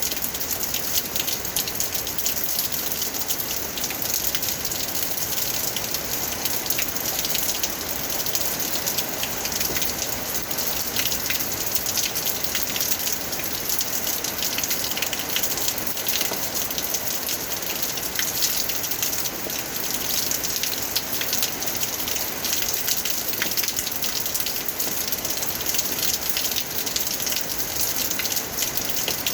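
Rain falling steadily, a dense hiss of many drops that keeps up without a break.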